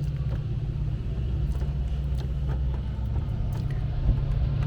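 Steady low vehicle rumble heard from inside a car cabin in the rain, with scattered faint ticks and one sharp knock about four seconds in.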